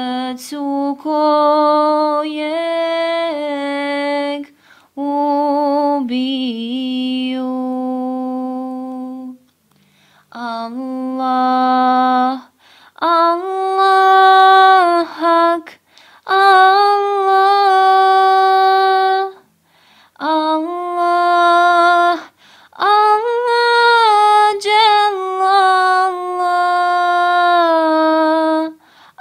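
A solo unaccompanied voice sings a slow, ornamented Islamic devotional chant. It holds long wavering notes in phrases of a few seconds, with short breaks between them.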